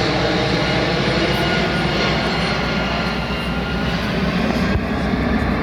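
Aircraft engines running as a plane passes overhead: a loud, steady drone with no clear rise or fall.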